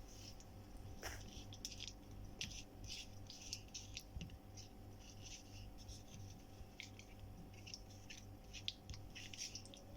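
Light, irregular scratching and clicking from handling food and utensils during kitchen prep, over a faint steady hum.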